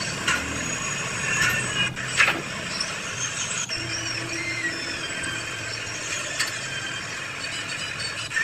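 Short high-pitched squeaks and metal clinks from a hydraulic jack being worked on, with a sharp knock about two seconds in.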